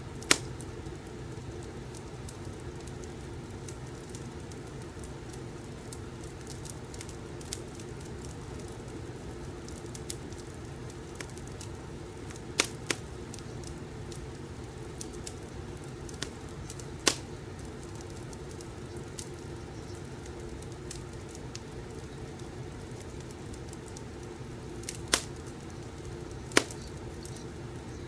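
Wood fire burning: a steady low rumble with sharp crackling pops scattered through it, about half a dozen of them loud.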